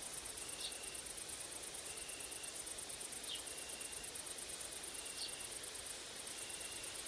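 Summer woodland insects, grasshoppers and crickets, stridulating: a very high, finely pulsed buzz that drops out briefly near the end, over a short even note repeated about every second and a half. Three brief high chirps come through over the top.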